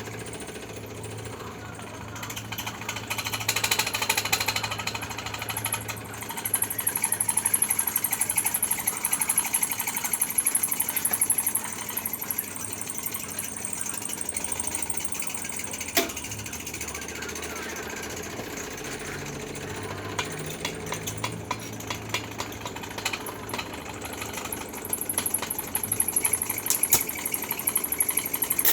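Electric arc welding crackling and sizzling, in louder stretches, over a steady low hum. A single sharp click sounds about halfway through.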